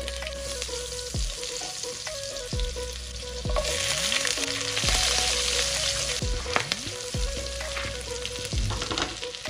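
Butter and green chillies sizzling in hot oil with cumin seeds in a nonstick kadai, stirred with a spatula. The sizzling jumps louder about three and a half seconds in. Background music with a steady beat plays underneath.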